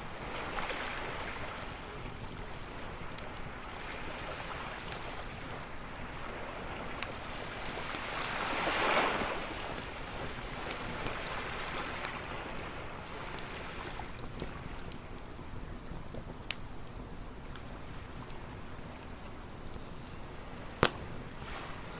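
Campfire crackling with scattered sharp pops over a steady wash of ocean waves. One wave swells up and washes in about nine seconds in, and a louder pop comes near the end.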